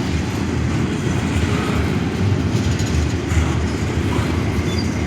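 Train rolling past, its cars rumbling steadily on the rails.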